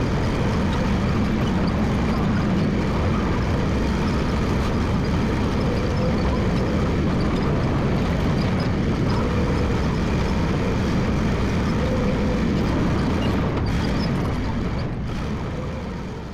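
Massey Ferguson MF 300 crawler dozer running steadily as it works, fading out over the last two seconds.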